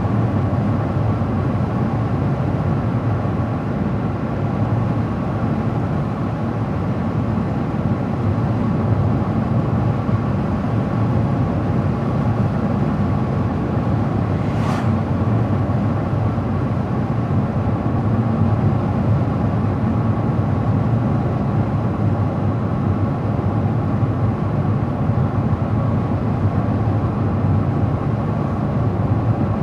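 Steady road noise of a car driving at a constant pace: low tyre and engine rumble with a faint steady whine. There is one brief sharp hiss about halfway through.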